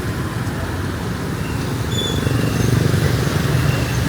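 Street traffic: vehicle engines running in a steady low rumble, with road noise.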